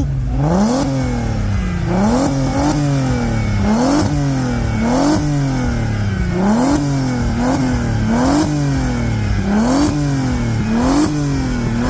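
VW T3 Caravelle van's swapped-in 3.2-litre R32 V6 engine being revved in short blips about once a second, each rev climbing quickly and falling back toward idle.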